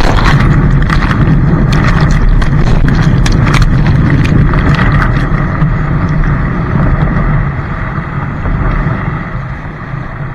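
Loud, steady rumbling noise of water and wind against the microphone on a moving kayak, with scattered sharp clicks and splashes in the first half. It eases off over the last few seconds.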